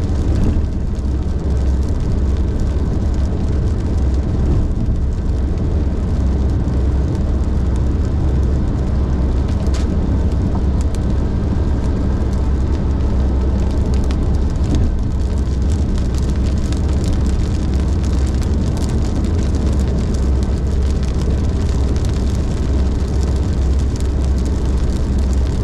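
Car driving at highway speed in heavy rain: a steady low road rumble with an even hiss of rain and tyre spray.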